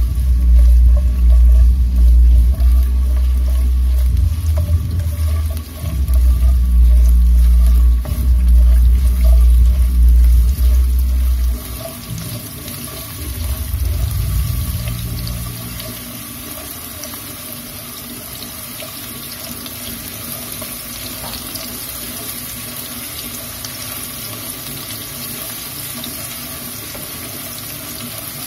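Sliced shallots and garlic sizzling in hot oil in a non-stick wok while being stirred with a wooden spatula: an even frying hiss. For about the first twelve seconds a loud low rumble lies under it, then stops suddenly.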